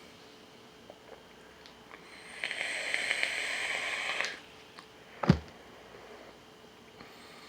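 Rebuildable dripper vape's coil firing during a drag: a crackling sizzle with an airy hiss lasting about two seconds. About a second later comes a single sharp knock.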